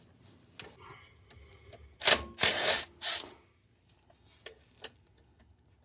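Ratchet wrench with a 10 mm socket clicking in a few short bursts about two seconds in, then a couple of faint ticks, as it loosens the transmission pan bolts on a pan that has no drain plug.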